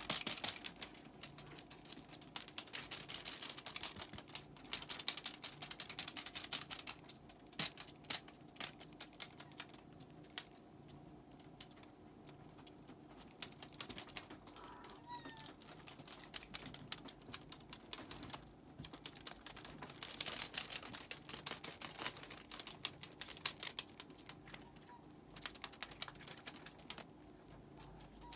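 Rapid, irregular light clicking and tapping that comes in busy spells with quieter stretches between them, over a faint steady hum.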